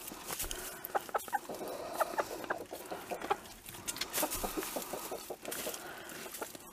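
A small flock of young laying hens clucking, many short calls overlapping in quick succession.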